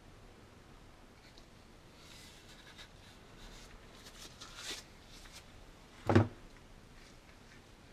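Light rubbing and scraping handling noises, then one sharp knock about six seconds in.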